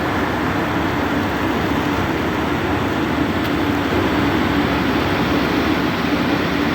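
Steady engine drone with a constant low hum under an even rushing noise, with no changes in pitch or level.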